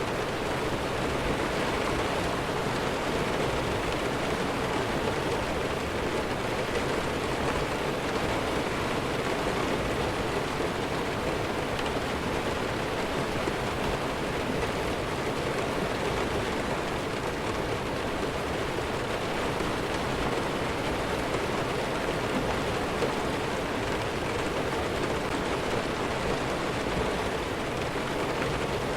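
Steady heavy rainfall: an even, unbroken hiss with no change in level.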